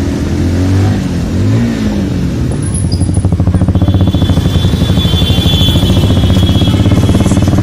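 Motorcycle engine running while riding, its pitch rising and falling over the first two seconds, then holding steady with a fast even pulse. A thin high tone joins about four seconds in and stops just before the end.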